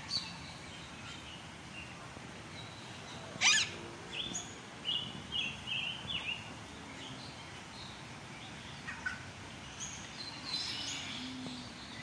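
Birds calling: one loud, harsh squawk about three and a half seconds in, then a run of short high chirps, with a few more chirps near the end.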